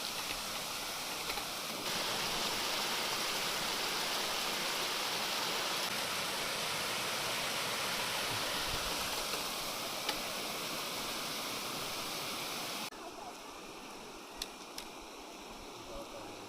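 Steady rushing of mountain stream water cascading over rocks. It gets louder and brighter about two seconds in, drops to a softer rush about thirteen seconds in, and has a few faint clicks near the end.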